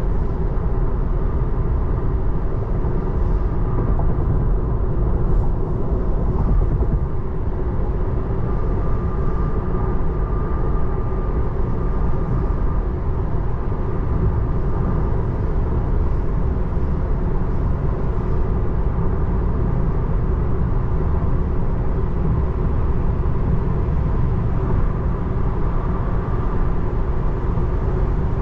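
Steady road and tyre noise inside the cabin of a 2024 Tesla Model 3, an electric car, driving on rain-wet roads.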